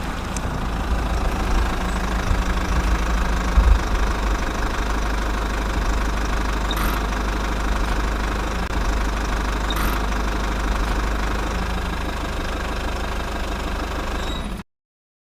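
Kubota RD 85 single-cylinder diesel engine running steadily while driving a small water pump. It cuts off suddenly near the end.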